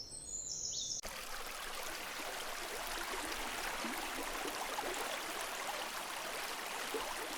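Running water of a stream, a steady splashy rush that starts abruptly about a second in.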